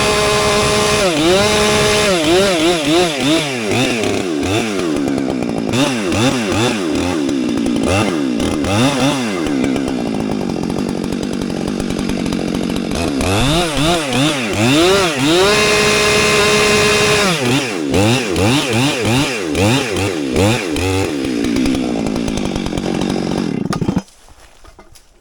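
Two-stroke chainsaw cutting up downed trees. It is revved up and down in quick blips and held at full throttle for a couple of seconds at a time during the cuts, then shuts off abruptly near the end.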